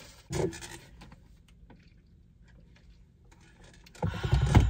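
Close-miked eating: faint chewing and mouth clicks, with a short burst of sound about half a second in and a louder one near the end.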